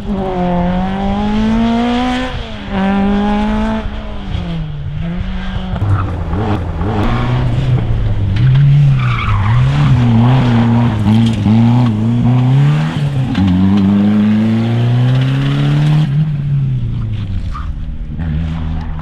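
Rally car engine worked hard, its pitch repeatedly climbing under throttle and falling on lifts and gear changes. About 16 seconds in the sound switches abruptly to a steadier engine note.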